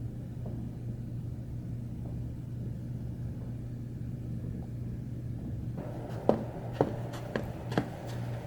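Steady low hum, with a run of short sharp knocks or crunches starting about six seconds in.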